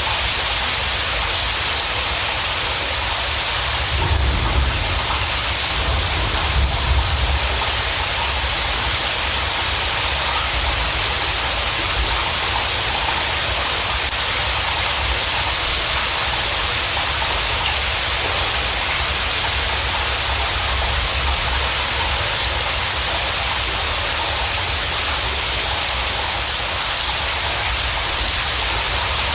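Steady heavy rain falling, an even hiss with no pauses. Brief low rumbles come about four and seven seconds in.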